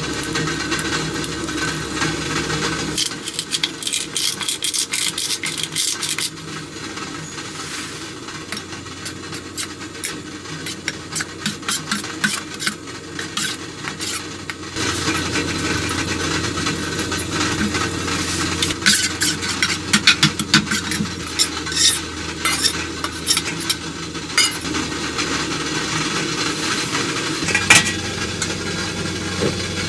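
Food sizzling on a metal cauldron-lid griddle, with metal utensils scraping, clicking and tapping against it as the food is stirred and turned.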